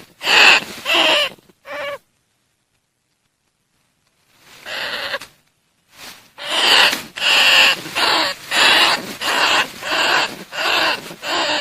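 Bandicoot rats calling: a few short calls, then a couple of seconds of dead silence, a single call, and then a steady run of short calls at about one and a half a second. It is a recording used as a lure call for bandicoot rats.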